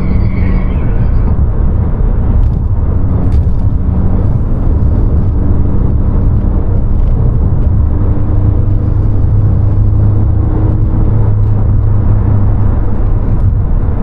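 2020 Honda Civic Si's 1.5-litre turbocharged four-cylinder engine running under way, with a steady low rumble of engine and road noise. Its note climbs slowly through the middle as the car gains speed, and a couple of short clicks sound near the start.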